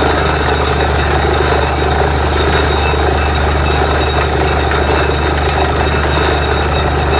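Borewell drilling rig running with a steady, loud, unbroken machine drone and a deep low hum.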